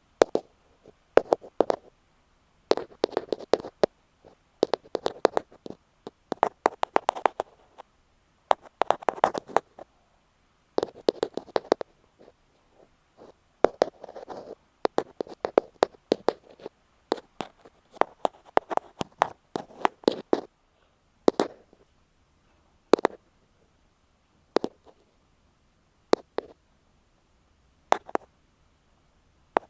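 Ear pick tapping close on an earphone microphone: bursts of quick clicks about every two seconds, thinning to single taps spaced a second or two apart in the last third.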